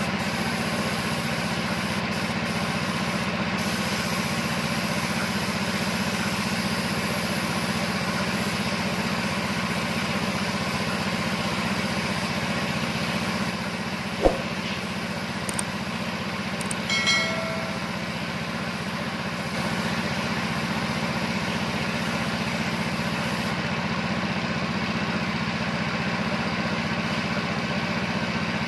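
Air compressor running steadily, a constant motor hum with hiss. About halfway through there is a single sharp click, followed a few seconds later by a brief high tone.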